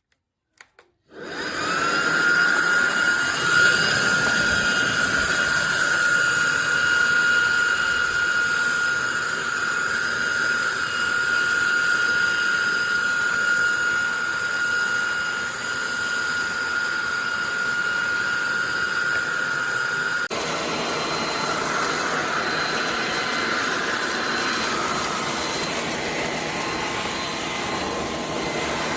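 SunSare X11 cordless stick vacuum switching on after a couple of faint clicks and running steadily with a loud motor whine. About twenty seconds in the sound changes abruptly: the main whine drops away, leaving airflow rush with a higher, thinner tone.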